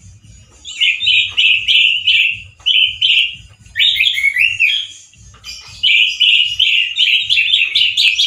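Male orange-headed thrush singing, loud and harsh: three runs of rapid, rippling notes with short breaks between them.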